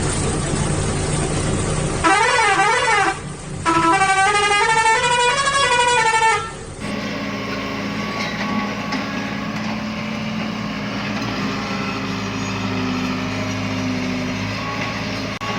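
A vehicle engine running, then a horn sounding twice with its pitch wavering up and down, the second blast longer. After a cut, a heavy engine running steadily.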